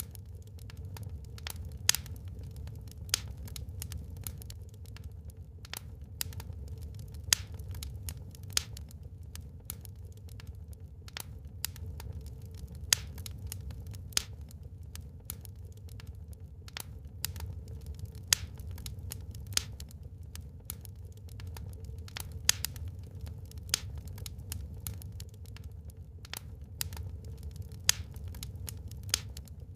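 Wood fire crackling in a fireplace: irregular sharp pops and snaps, a few a second with some louder ones, over a steady low rumble.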